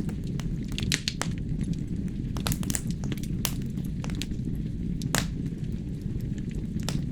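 Logs burning in a fireplace: a steady low rumble of flames with irregular sharp crackles and pops, a few louder pops about a second in, around two and a half seconds, and a little past the middle.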